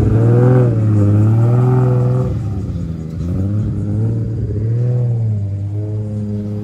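A car engine being revved at a standstill: the revs climb and hang for about two seconds, drop back, climb again, and drop once more near the end.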